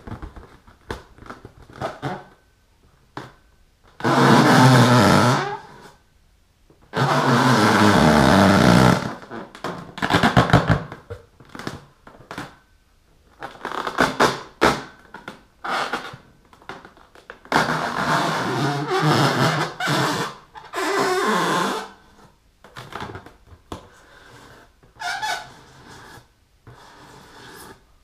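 Latex balloon squeaking and rasping as long fingernails scratch and rub across it, in loud bursts of one or two seconds with many short scratches between. The two longest, loudest rubs come about four and seven seconds in.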